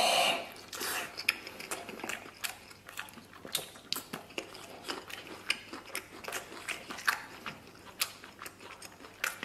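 A person chewing a mouthful of braised pork knuckle, with many short wet clicks and mouth noises. A brief louder mouth sound comes right at the start.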